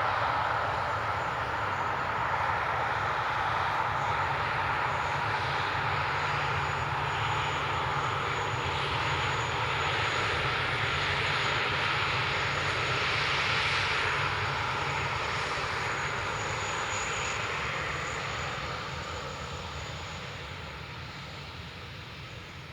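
Boeing 737-400 freighter's CFM56 jet engines at takeoff thrust: a loud, steady rushing noise with a thin high whine, which fades gradually over the last several seconds as the plane moves away.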